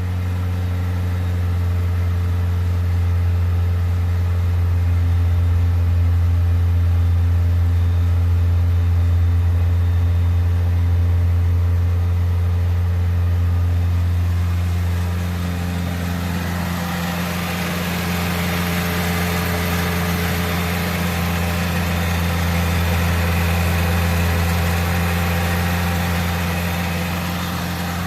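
A 21-year-old car's engine idling steadily with a deep, even hum. Its owner wonders about the condition of the catalytic converter. About halfway through, the sound turns brighter and hissier.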